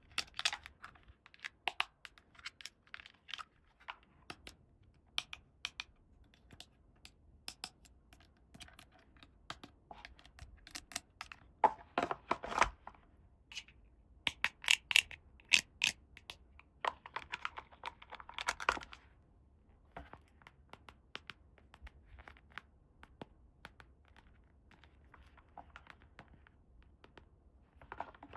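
Close-up handling of small plastic toy pieces and their packaging: scattered light clicks and taps, with longer crinkling, tearing rustles about twelve seconds in and again around seventeen to nineteen seconds. The clicks thin out and grow fainter near the end.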